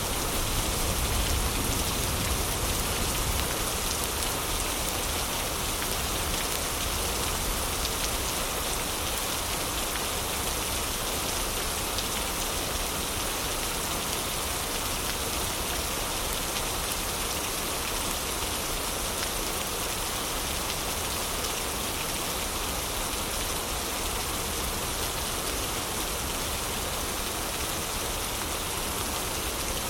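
Heavy rain falling steadily, an even hiss of rain. A low thunder rumble dies away over the first few seconds.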